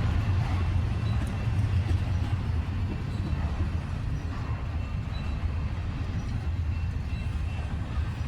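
Freight train rolling past with a steady low rumble, with faint high-pitched squeals now and then.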